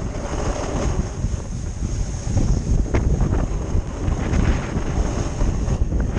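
Wind buffeting the microphone while snowboarding downhill: a steady heavy rumble over the hiss of the board sliding on icy, freezing-rain-crusted snow, with a few brief edge scrapes.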